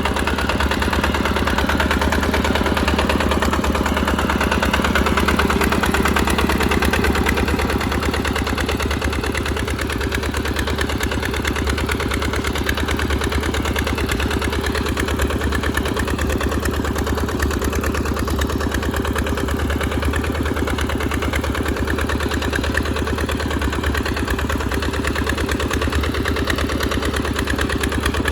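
Tractor engine running steadily under load, with a fast even firing beat, a little louder in the first several seconds.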